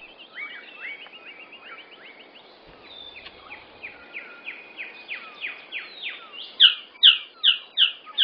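Male magnificent bird of paradise calling: a series of short, downslurred notes that start soft and grow much louder in the last second and a half, where the notes come about two to three a second.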